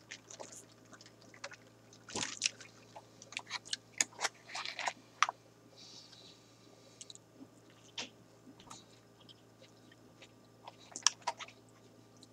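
A person chewing a mouthful of burger close to the microphone: irregular wet mouth clicks and smacks in small clusters, over a faint low steady hum.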